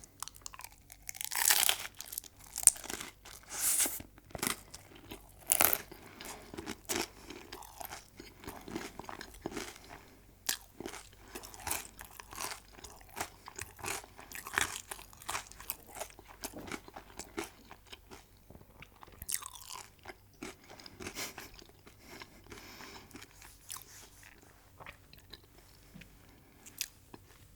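Close-miked eating: a few loud, crisp crunching bites in the first six seconds, then steady chewing of crunchy food.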